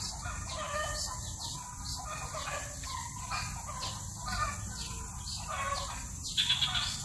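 Birds calling: a run of short, repeated calls, the loudest near the end, over a steady low rumble.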